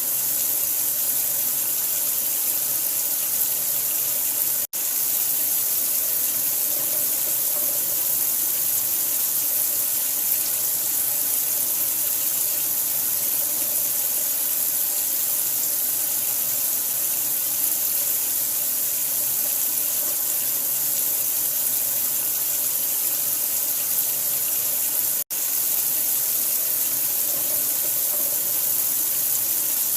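Steady, continuous rush of running water, even and unchanging, brightest in the hiss range. It cuts out for an instant twice, about five seconds in and again near the end.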